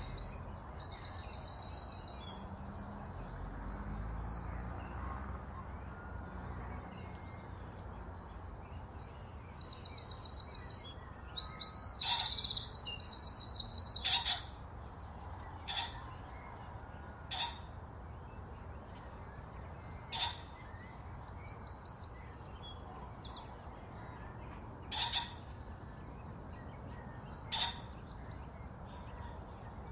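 Small birds chirping and trilling: rapid high trills at first, a louder run of trills about halfway through, then single sharp chirps every few seconds.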